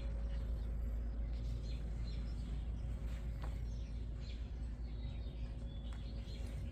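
Steady low rumble with a faint steady hum, and faint bird chirps scattered through it.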